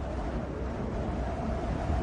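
Wind blowing: a steady low rumbling rush with a hiss above it, slowly growing louder.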